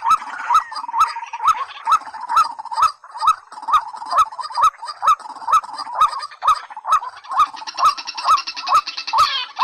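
Rail calls from a recorded waterhen and watercock call track: a short upward-hooked note repeated about two to three times a second, with sharp clicks. From about seven and a half seconds in, a second, faster chattering call joins it.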